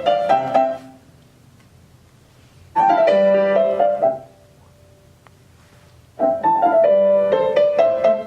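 Piano playing a classical melody in three short bursts, each phrase cutting off abruptly into a quiet gap before the next starts.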